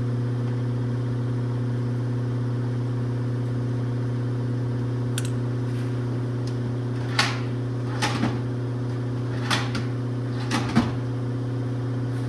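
Steady machine hum with a low, level pitch, and about six sharp clicks and knocks from about seven seconds in, typical of small parts being handled.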